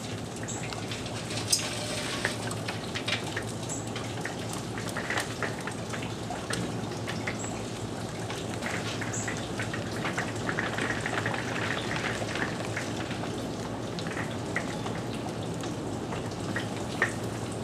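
Steady rain falling, with many single drops ticking close by. A sharp clatter about a second and a half in as lit charcoal is tipped from a chimney starter into the ceramic kamado grill, and a clink near the end as the metal cooking grate is set in place.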